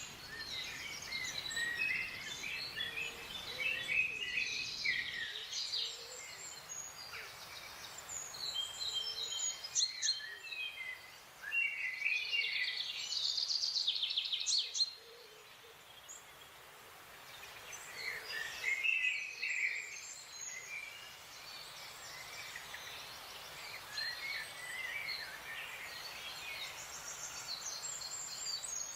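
Several wild songbirds chirping and calling at once, short quick notes overlapping throughout, with a denser rapid trill about halfway through.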